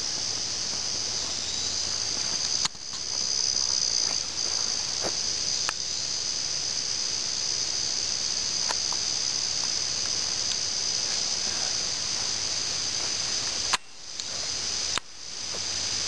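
Steady, high-pitched insect chorus droning without a break, with a few faint clicks. The sound drops out abruptly three times and swells back each time.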